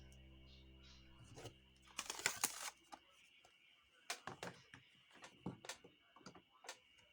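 Background music fading out, then a series of light, irregular clicks and taps, with a short louder scraping or rustling burst about two seconds in.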